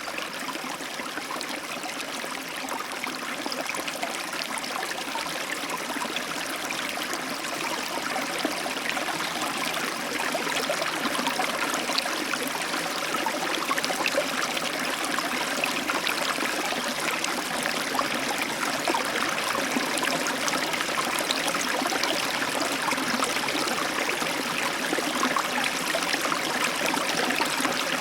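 Heavy tropical downpour, a steady rush of rain that swells gently over the first several seconds and then holds even.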